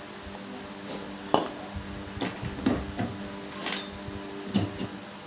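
Ceiling fan metal parts being handled and fitted together: a series of about seven light clinks and knocks, spaced irregularly.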